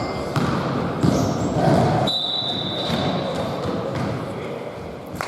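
Basketball game sounds: a ball bouncing on the court with a few sharp thuds, over the noise of players' voices, and a short steady high-pitched tone lasting about a second, starting about two seconds in.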